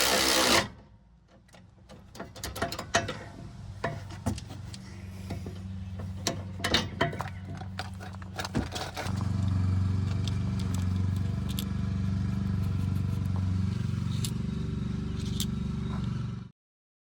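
A series of scattered clicks and knocks, then from about nine seconds in a vehicle engine running with a steady low hum. The hum cuts off suddenly near the end.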